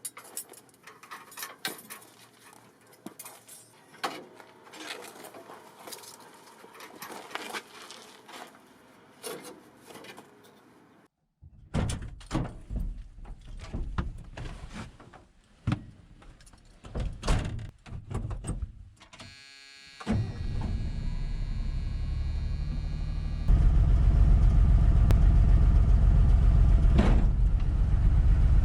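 Scattered clicks and knocks of hands and tools working on a 1978 Ford F150. Then, about twenty seconds in, the truck's engine starts and runs steadily, getting louder a few seconds later.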